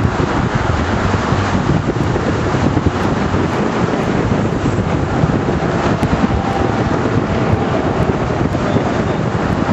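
Steady, loud wind buffeting the microphone, a dense rumbling rush with no distinct events.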